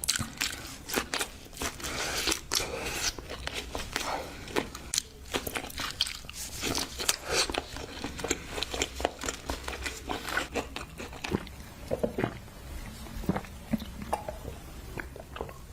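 A person eating close to the microphone: biting and chewing food, with many irregular crunches and clicks.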